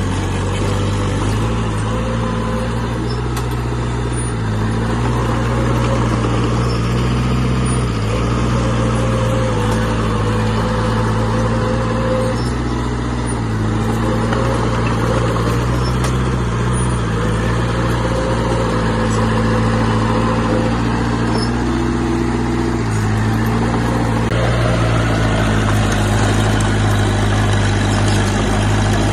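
Heavy diesel engine of earthmoving equipment running steadily, its pitch stepping up and down several times.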